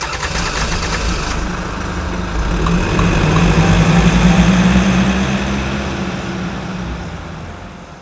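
A motor running steadily with a low hum, growing louder toward the middle and fading away near the end.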